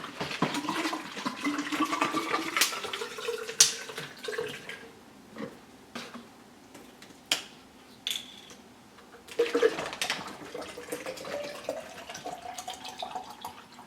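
Water running into a drink container, its pitch rising as the container fills. It pauses with a few light clicks, then a second pour starts about nine and a half seconds in and again rises in pitch as it fills.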